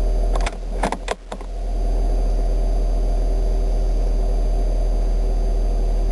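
A 1997 Nissan Sentra's 1.6-litre four-cylinder engine idling steadily, heard from inside the cabin. A short run of clicks and rattles comes about half a second to a second and a half in.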